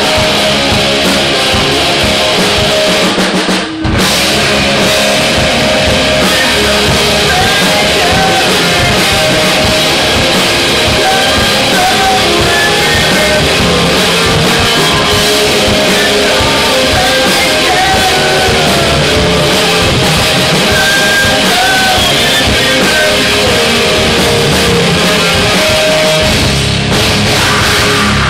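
Rock band playing live at full volume: distorted guitars, drum kit and singing, with a brief break about four seconds in.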